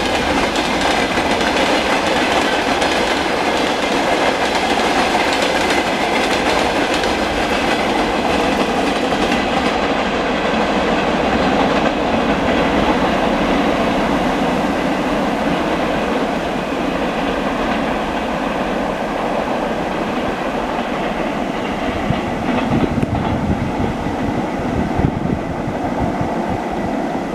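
Freight train rolling past, its wagon wheels clacking over the rail joints in a dense, steady rumble that eases a little near the end.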